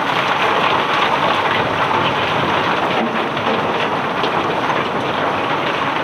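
Cobblestones pouring off a barge in a dense, continuous rattling stream of many small stone-on-stone impacts.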